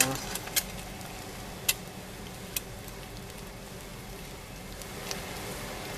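Eggs and chicken frying in a pan: a steady sizzle with a few sharp crackles.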